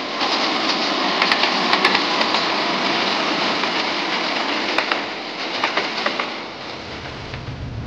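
Diesel-hauled passenger train running past: steady rushing noise of wheels on the rails, with sharp clicks as the wheels cross rail joints, fading somewhat after about six seconds.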